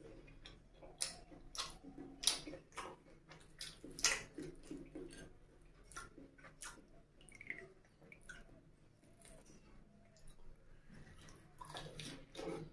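Close-miked wet chewing and lip-smacking of egg curry and puri, heard as many sharp, irregular wet clicks, with fingers squelching through a boiled egg in the curry gravy.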